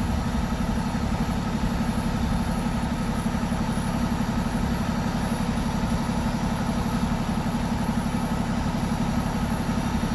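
A vehicle engine idling steadily, a low, rapid, even throb.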